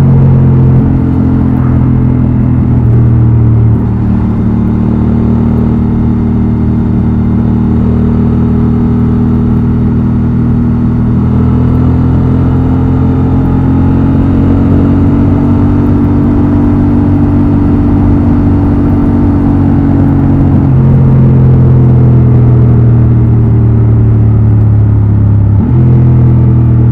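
Honda XL750 Transalp's 755 cc parallel-twin engine and exhaust under way on the road, a steady running note that holds for stretches and then steps to a new pitch several times with throttle and gear changes, rising slowly in the middle and dropping sharply late on.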